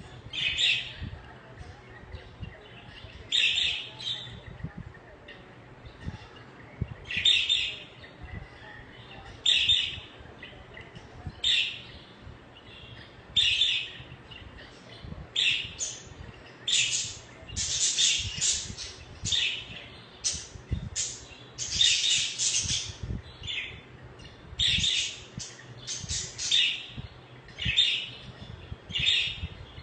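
Budgerigars chirping and chattering in short, high bursts, spaced a couple of seconds apart at first and coming thicker and faster in the second half.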